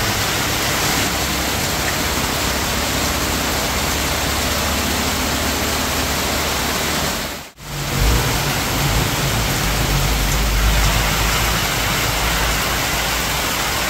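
Heavy rain pouring down in a steady, loud hiss. About halfway through, the sound drops out for a moment, and afterwards a low rumble runs under the rain.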